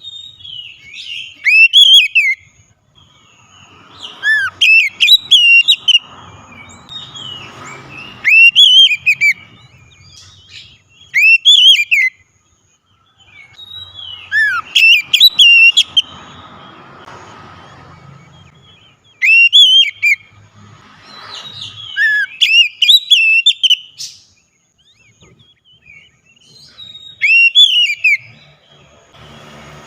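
Oriental magpie-robin (kacer) singing loudly, in repeated bursts of sharp whistled rising and falling notes with short pauses between phrases.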